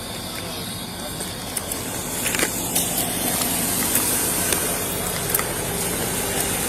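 Steady hum of idling vehicle engines, with scattered crackling clicks and a hiss that grows louder about two seconds in.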